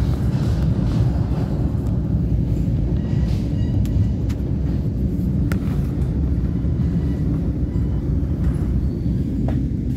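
Passenger train car running on the rails, heard from inside: a steady low rumble with a few faint clicks.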